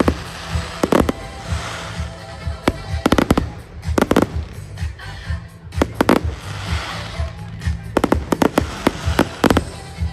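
Fireworks display: repeated sharp bangs in quick clusters with bursts of crackling, over loud music with a pulsing bass.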